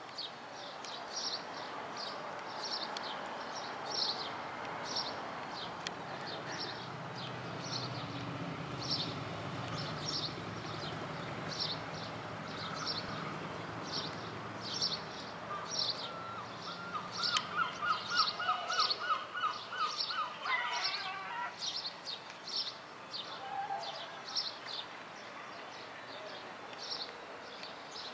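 A bird chirping over and over, more than once a second, over the low, steady running of a BB 67400 diesel locomotive hauling coaches slowly. A little past halfway, a fast run of repeated notes comes in and ends a few seconds later.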